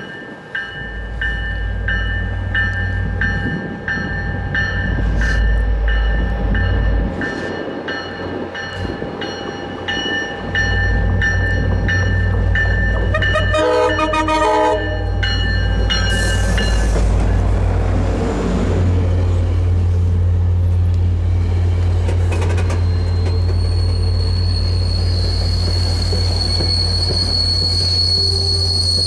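Train passing close: a steady heavy rumble, with a locomotive bell ringing in even strokes for the first half and the horn sounding in short blasts about halfway through. A high wheel squeal sets in near the end.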